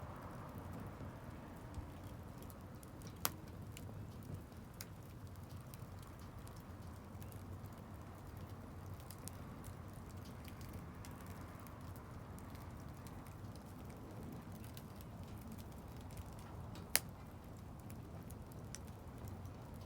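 Campfire burning with a low steady rush and scattered crackles. Two sharp pops stand out, one about three seconds in and a louder one near the end.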